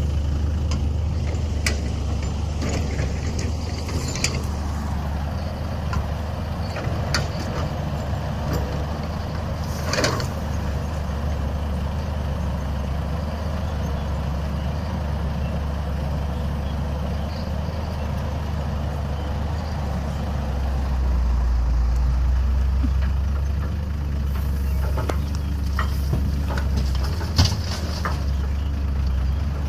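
Cat 320B excavator's diesel engine running steadily, growing louder for a few seconds past the middle, with a few sharp clanks. The sharpest clank comes near the end.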